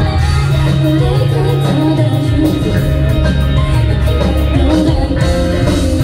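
A live rock band playing loudly through a concert PA, with electric guitar, bass, drums and keyboard, recorded from the audience.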